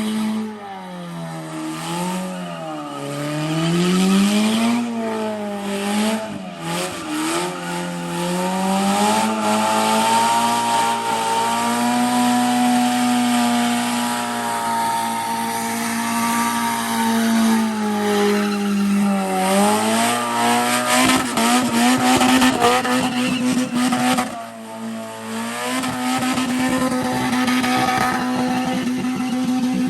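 Car engine running hard, its pitch swinging up and down over the first few seconds, then held high and steady, falling away briefly about three-quarters of the way through before picking up again.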